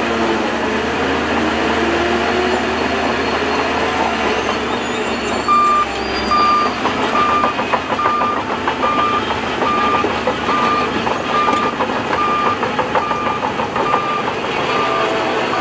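Heavy earth-moving machinery running steadily. About a third of the way in, a reversing alarm starts beeping, a little more than once a second.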